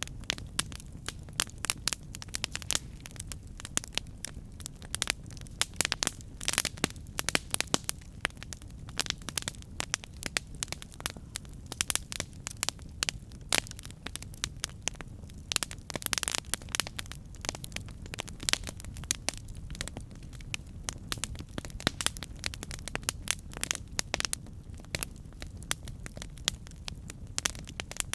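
Campfire crackling: dense, irregular sharp pops and snaps of burning wood over a steady low rumble of the flames.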